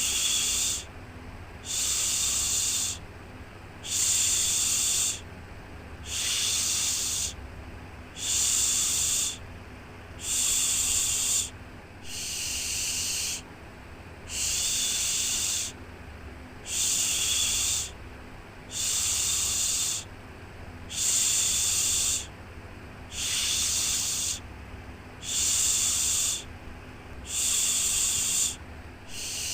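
Repeated 'shhh' shushing for lulling a baby: even hissing shushes about a second long, one every two seconds, over a faint low hum.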